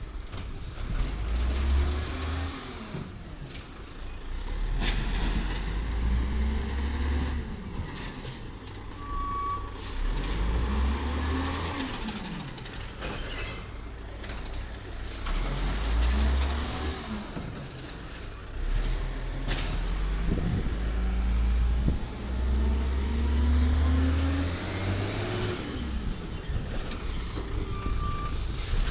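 Volvo VED7 diesel engine of a 1995 WhiteGMC automated side-loader garbage truck, revving up and falling back again and again. Short air-brake hisses come in between.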